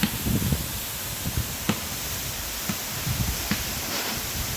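Waterfall: a steady rushing hiss of falling water, with irregular low bumps and a few faint clicks over it.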